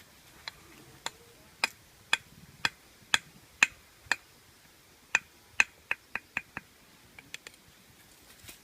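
A series of sharp clicks or knocks, about two a second, then a quicker run of six after a short pause, and a few fainter ones near the end.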